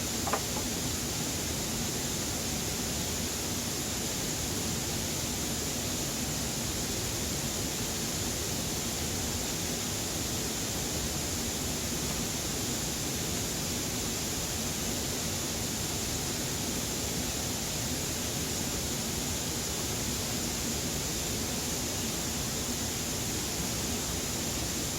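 Steady rushing noise that does not change, with an even high hiss on top and a single short tick just after the start.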